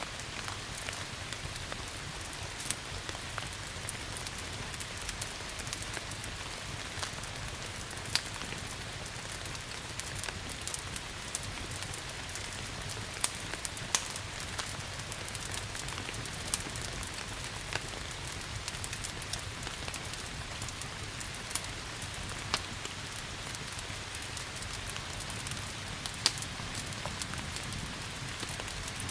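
Steady rain with a wood fire crackling, sharp pops scattered irregularly through the hiss.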